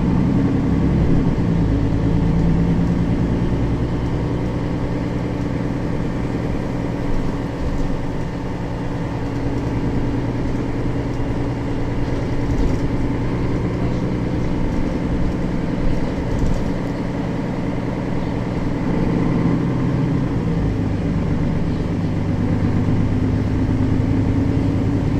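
Engine of a Mercedes-Benz Citaro facelift city bus running while the bus drives, heard from on board. Its note shifts near the start and again about three-quarters of the way through.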